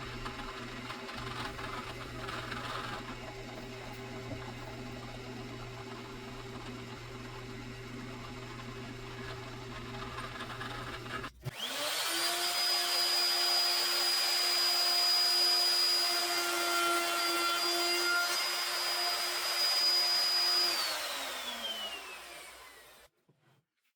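Shop power tools running: a steady machine hum, then, after an abrupt cut, an electric power-tool motor spins up to a high steady whine, runs for about nine seconds and winds down to a stop.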